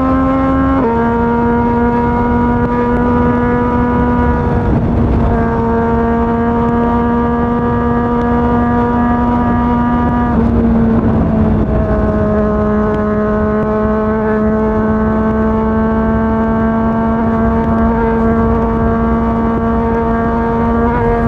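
Yamaha MT-09 three-cylinder engine breathing through a Yoshimura R55 slip-on exhaust, holding a steady high-speed cruise. Its drone steps down in pitch about a second in and eases a little lower again about halfway through, over steady wind and road noise.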